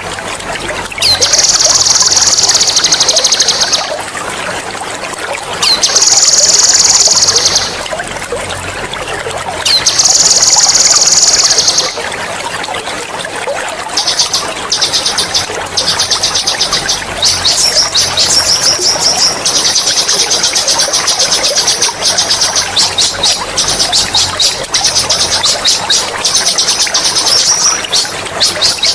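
A songbird singing loud, sharp rolling trills over steadily trickling water: three long high trills of about two seconds each with short pauses, then from about halfway a near-continuous run of rapid trills.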